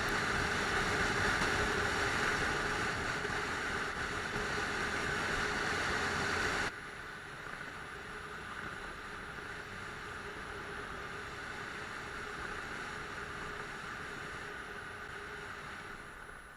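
Steady rush of wind and road noise on a riding motorcycle's camera microphone. It drops abruptly to a lower level about seven seconds in, then fades near the end.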